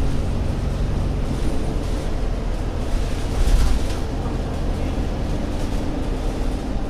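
Alexander Dennis Enviro500 MMC Euro 6 double-decker bus's diesel engine running steadily with a deep rumble, with a brief louder rush of noise about halfway through.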